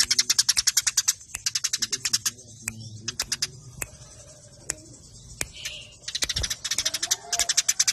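Eurasian tree sparrows chirping in fast runs of short, sharp chirps, the rapid chatter of sparrows squabbling. The chirping thins out around the middle and turns dense again near the end.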